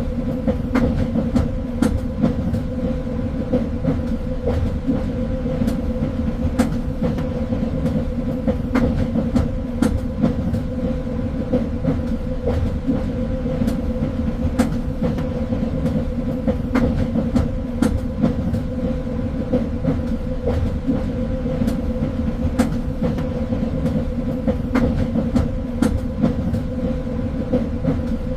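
Train running along the track: a steady low rumble with a constant hum, and frequent short clicks and knocks from the wheels and rails.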